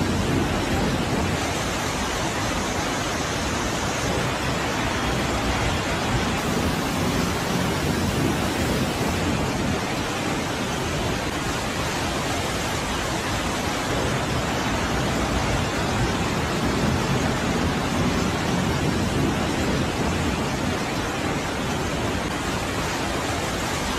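Steady, even rush of storm water.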